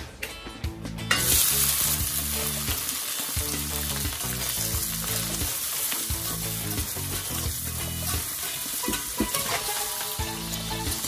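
Bell pepper chunks hitting hot oil in a wok about a second in, then a steady loud sizzle as they fry and are stirred with a wire strainer. Soft background music plays underneath.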